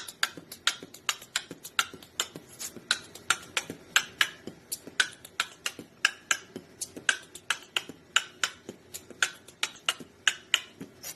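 A fast, unbroken run of short, sharp clicks, about five a second, over a faint steady hum.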